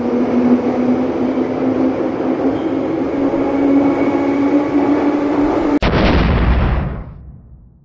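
Train running with a steady rumble and hum, cut off about six seconds in by a loud, deep crash that dies away within about a second.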